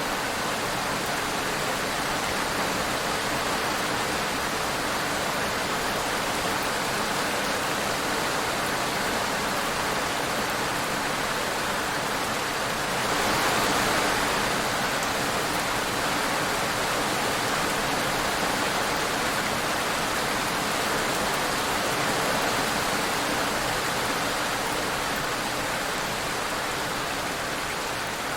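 Steady rain falling, an even hiss without a break, swelling slightly for a moment about halfway through.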